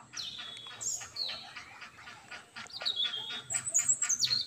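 Small birds chirping: several short, high whistled calls, some sliding down in pitch, mixed with quick chips.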